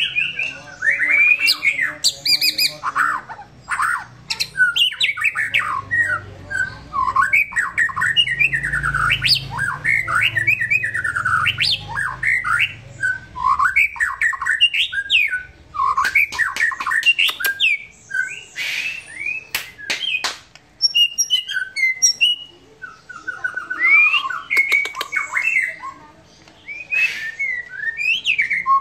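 White-rumped shama (murai batu) singing a continuous, varied song of quick gliding whistled phrases, with sharp clicks among them, in an easy, relaxed way.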